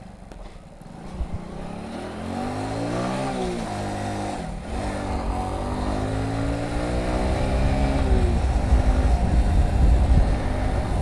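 Motorcycle engine accelerating through the gears: the pitch rises, drops sharply at a gear change about four and a half seconds in, then climbs again and levels off, with wind rumble growing louder as speed builds.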